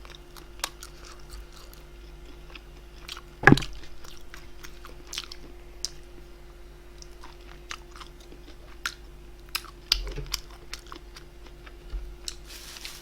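Close-miked chewing and biting of food, with many small crisp mouth sounds and a louder one about three and a half seconds in, over a faint steady hum.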